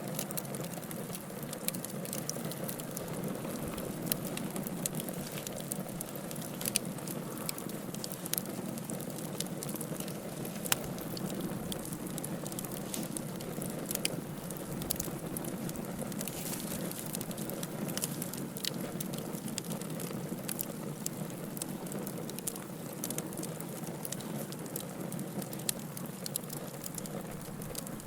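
Wood logs burning in a fireplace: a steady hiss of flames with frequent small, irregular crackles and pops.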